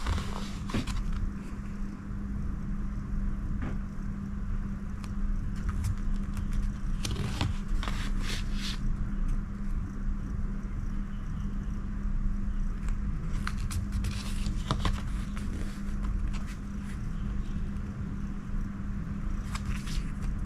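Scattered rustles, scrapes and light clicks from photo postcards and their packaging being handled, over a steady low hum.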